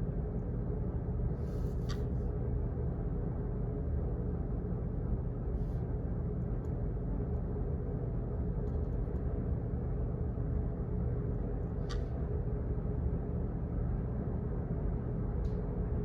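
Office background noise: a steady low rumble with a faint hum, broken by four scattered sharp clicks.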